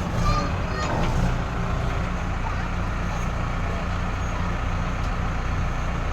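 Backhoe loader's diesel engine running steadily, with a few brief clanks and a short squeak in the first second or so.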